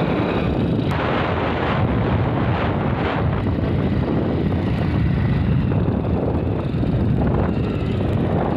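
Wind buffeting the helmet-mounted microphone while riding a motorbike, over a steady rumble of engine and road noise.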